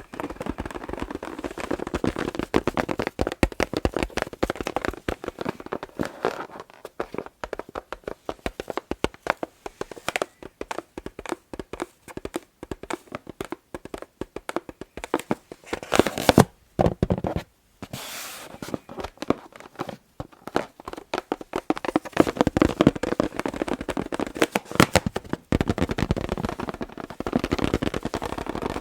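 Fingers tapping and scratching on an inflated balloon: fast, dense taps that thin out in the middle, with two short, louder scratching swipes about halfway through.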